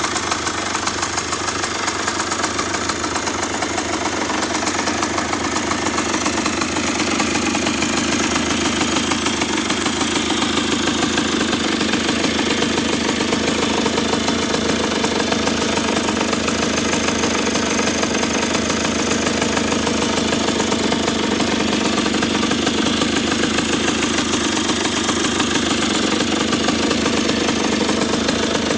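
Husqvarna WSM 50 supermoto's 50cc two-stroke engine idling steadily as it warms up from a cold start, getting slightly louder over the first several seconds.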